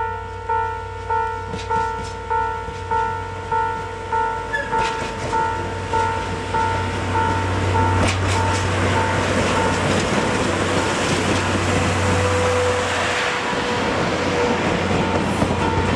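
Level-crossing warning bell dinging about twice a second, fading out around halfway through. Meanwhile a DE10 diesel locomotive and its passenger coaches approach and pass, the engine rumble and rolling noise building to the loudest sound.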